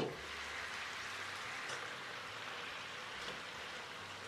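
Chicken pieces sizzling steadily in a pan of hot oil and white-wine juices, the sizzle rising suddenly at the start as the lid comes off. A couple of faint ticks from the metal tongs turning the pieces.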